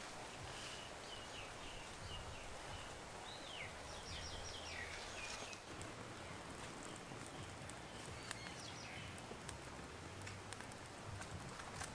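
Wild birds chirping and whistling over a faint, steady outdoor background, with a run of short calls and a quick trill in the first half and a few more calls a little past the middle.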